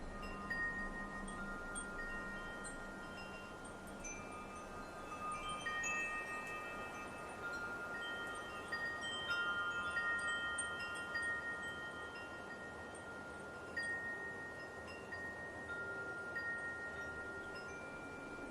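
Wind chimes ringing in a light wind, tubes struck irregularly so that several long, overlapping bell-like tones sustain and blend, over a soft hiss of wind.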